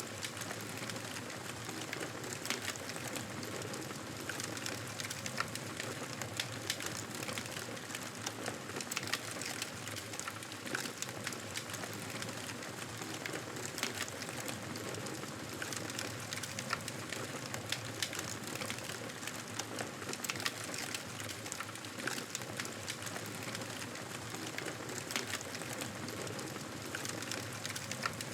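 Campfire burning steadily, with many small irregular crackles and pops over a soft continuous hiss.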